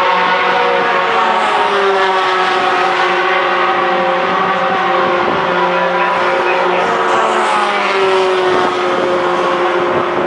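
Racing pickup trucks' engines running hard on track, several engine notes at once, with an engine note falling in pitch twice as trucks go by or lift off.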